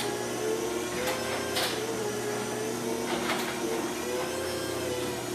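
An AC chain-drive and a DC belt-drive garage door opener running at the same time: a steady motor hum with a wavering whine and a few sharp clacks from the moving drives and doors.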